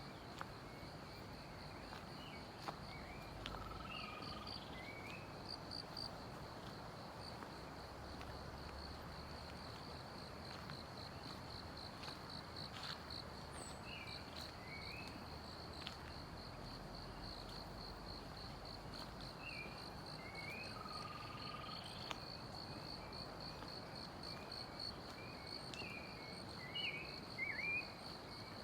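A steady, rapidly pulsing high insect buzz carries on throughout, with forest birds giving scattered short chirps over it and a brief whistled note twice. A small cluster of louder chirps comes near the end.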